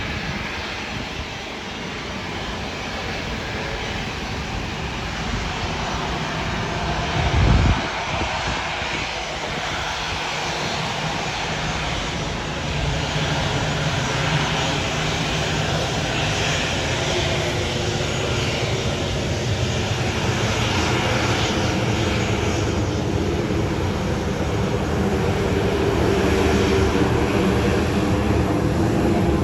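Aircraft engines running steadily, growing louder toward the end. A brief low thump comes about seven and a half seconds in.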